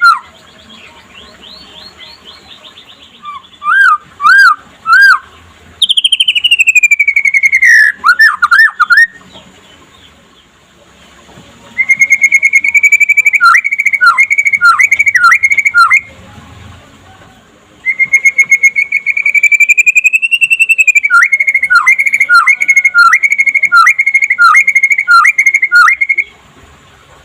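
White-rumped shama (murai batu) song: loud, clear whistled phrases separated by short pauses. A falling slide comes about six seconds in. Later phrases start with a long held whistle and run into quick repeated two-note whistles, about two a second.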